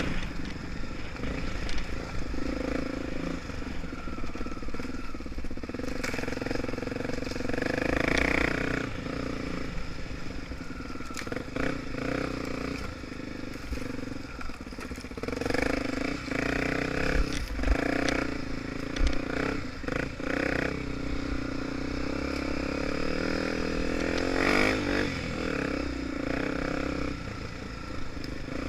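Honda Tornado 250's single-cylinder four-stroke engine running as the bike is ridden, its pitch rising and falling with the throttle, with scattered knocks and rattles.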